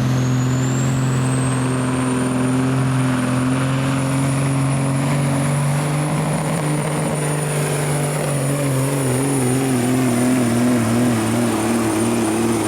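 Pulling vehicle's diesel engine running hard under load, with a high whistle that climbs over the first two seconds and then holds steady. In the second half the engine note wavers rapidly up and down.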